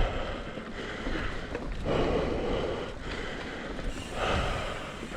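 A mountain biker breathing hard while pedaling uphill, with a heavy breath about every two seconds over steady wind rumble on the microphone.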